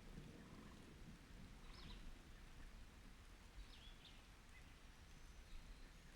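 Faint creaks from a park swing's chains or hangers, a short squeak about every two seconds as it sways, over a low rumble of rain.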